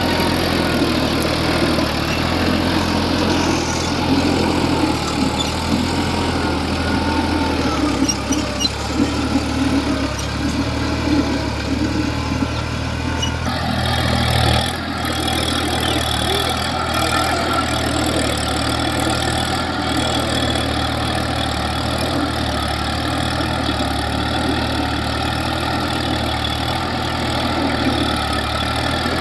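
New Holland tractor's diesel engine running steadily as it works the field, its note shifting slightly about halfway through.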